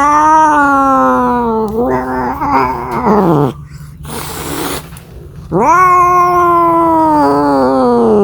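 Domestic cat yowling (caterwauling) in two long drawn-out calls, each rising briefly and then sliding slowly down in pitch, with a short breathy noise between them. This is the mating yowl of a cat calling for a mate.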